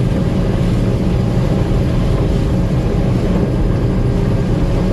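Gleaner M2 combine running steadily while harvesting corn, a loud even drone of engine and machinery heard from inside the cab.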